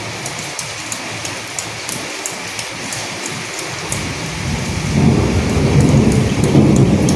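Steady rain with individual drops ticking sharply, and a low rumble of thunder that swells in about four seconds in and is the loudest sound near the end.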